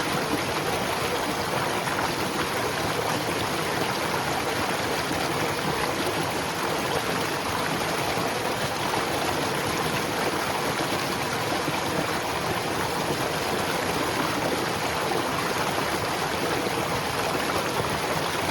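Steady white noise for sleep or relaxation: an even, unchanging hiss with no breaks.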